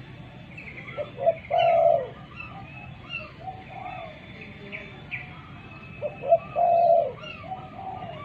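Spotted dove cooing: two phrases, each of short notes followed by a longer held note, one about a second in and one about six seconds in. Other small birds chirp throughout.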